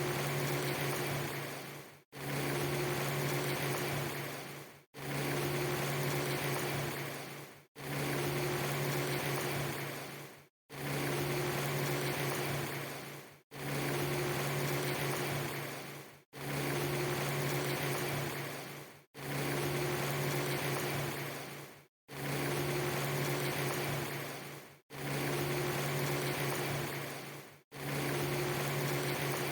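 A steady low machine-like hum under a hiss, in segments just under three seconds long that each fade and cut off abruptly to silence, repeating about every 2.8 s.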